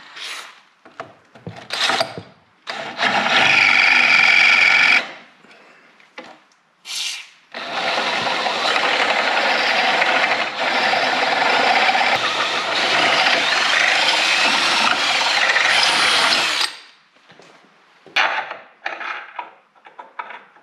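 Power drill running in a few short bursts, then drilling steadily for about nine seconds before stopping.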